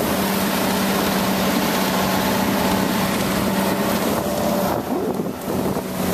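Motorboat engine running steadily at low speed with an even hum, with wind noise over the microphone; the noise briefly dips about five seconds in.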